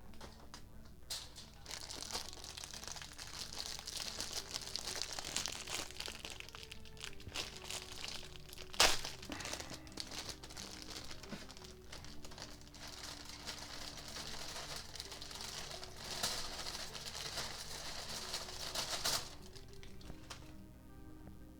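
Plastic packaging crinkling as pre-packed chicken spring rolls are unwrapped and handled, with one sharp click about nine seconds in. The crinkling fades out a couple of seconds before the end.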